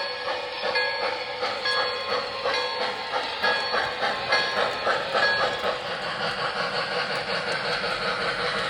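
Model train running on the layout, its sound carrying a rhythmic beat of about two to three pulses a second that becomes less distinct near the end.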